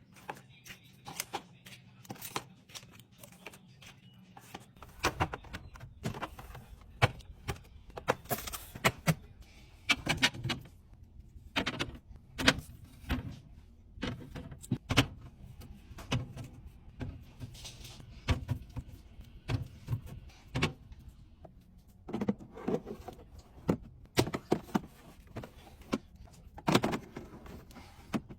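Food containers, bottles and packaging being handled and set into a fridge: a string of clicks, taps and knocks with some rustling between them. A low hum comes in about five seconds in.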